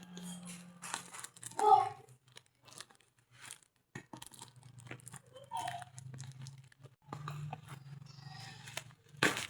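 Packaging of an impact drill being opened and handled: irregular crunching, tearing and crinkling with scattered clicks.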